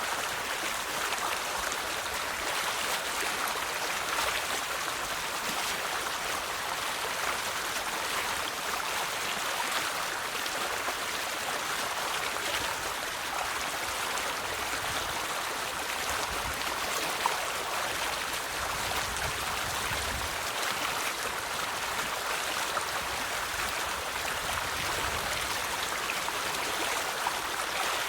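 River water flowing over rocks: a steady rushing babble with small splashes and trickles.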